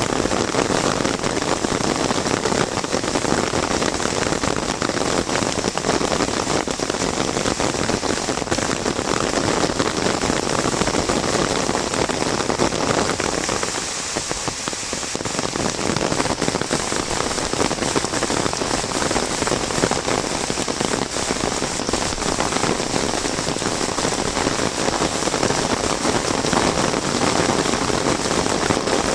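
Heavy monsoon rain pattering densely on an umbrella overhead, a steady downpour that eases slightly for a moment about halfway through.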